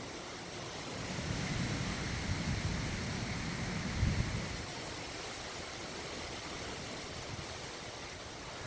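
Wind gusting over the microphone under a steady outdoor hiss: a low, buffeting rumble builds about a second in, peaks sharply near four seconds, then dies back.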